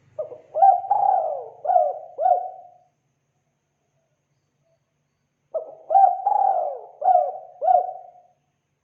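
Spotted dove (tekukur) cooing: two phrases of about five swooping coos each, a few seconds apart.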